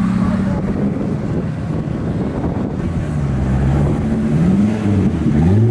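A car engine running with a deep rumble, then revved twice near the end, its pitch rising quickly.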